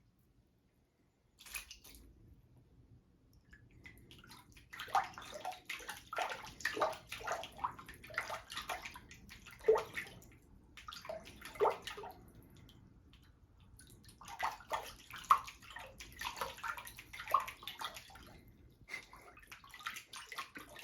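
Water splashing and sloshing in irregular bursts with short quiet gaps, as a cat paws at running water.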